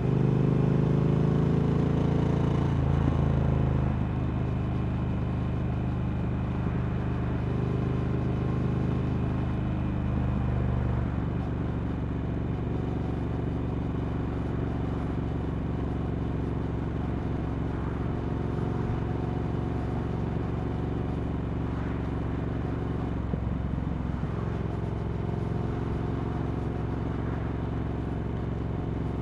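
Triumph Speed Twin 1200's parallel-twin engine through Vance & Hines slip-on exhausts while riding: the note falls as the bike slows at the start, then settles into a steady cruising note, a little quieter after about four seconds and again around eleven seconds.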